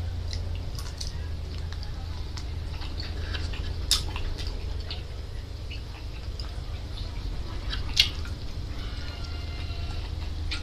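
Close-up mouth sounds of a person eating grilled squid: wet chewing and lip smacks, with two sharper clicks about four and eight seconds in, over a steady low hum.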